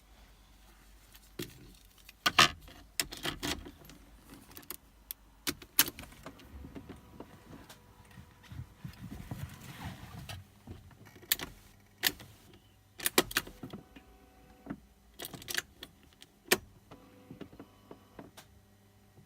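Ignition keys jangling and a series of sharp clicks as the key of a 1995 BMW E36 328 is turned over and over, with no cranking and no engine start. This is a no-crank fault, which the owner suspects may come from the starter, bad battery connections or the key antenna.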